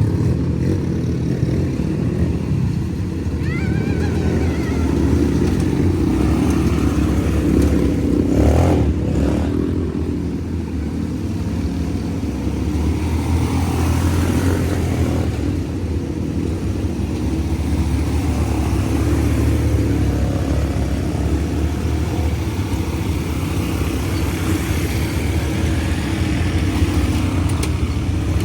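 ATV engine running steadily while being ridden, its level swelling and easing slightly as it goes.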